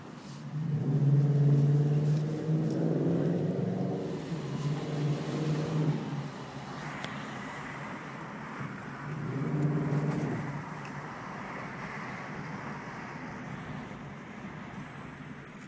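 BMW X5 4.6is V8 with stainless steel exhausts, the engine pulled up twice: a long spell of about six seconds, loudest near the start, and a shorter one about nine seconds in, with a low, even exhaust note between.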